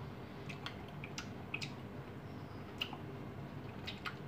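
Eating sounds: irregular wet mouth clicks and smacks while a mouthful of raw salmon kinilaw is chewed, over a faint steady low hum.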